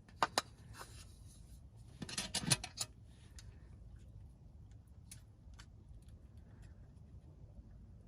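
Light clicks and small knocks of objects being handled: two sharp clicks at the start, a quick clatter of several clicks about two seconds in, then scattered faint ticks.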